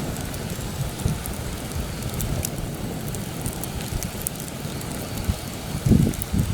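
Campfire crackling, with scattered sharp pops, while heavy wind gusts and rumbles across the microphone. The strongest gust comes near the end.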